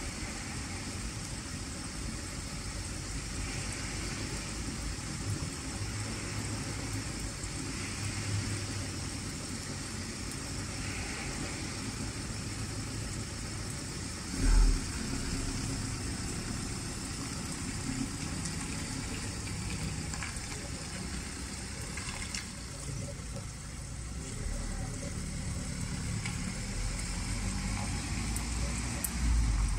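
Steady rain falling on a wet road and grass, with a car engine idling under it and one dull thump about halfway through. Near the end the engine grows louder as the car pulls away.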